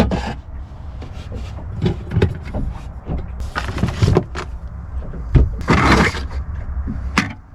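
Handling noises: scattered knocks, clatters and rustling, with two longer rustling bursts, one about halfway through and a louder one about six seconds in, over a steady low rumble.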